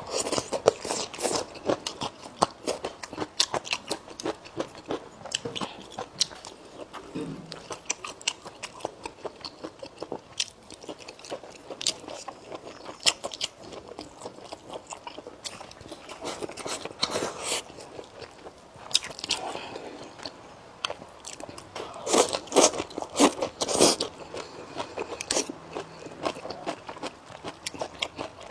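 A person eating close to the microphone: crisp bites and chewing, with the crunching coming in bursts, loudest about two-thirds of the way through.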